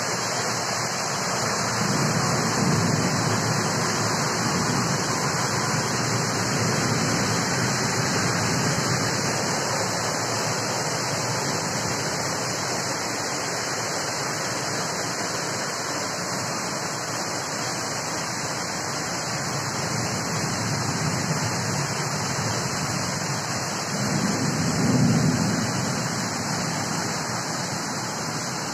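Heavy rain pouring steadily in a storm, swelling louder a couple of times as the wind gusts, about two seconds in and near the end.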